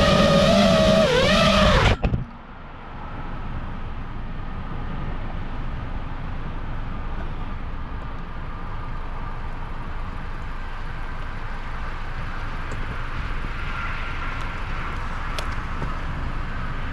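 Motors and propellers of a 5-inch FPV freestyle quadcopter whining, the pitch swinging up and down with the throttle, then cutting off suddenly about two seconds in. After that, a steady low rumble with a faint high whine that grows slightly near the end.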